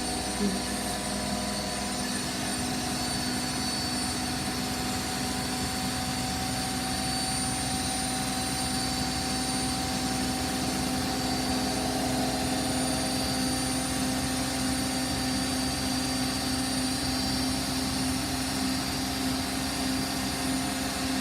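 Hotpoint washing machine spinning at its top speed of 1400 rpm: a steady, even whine and hum at several pitches over the rushing noise of the drum.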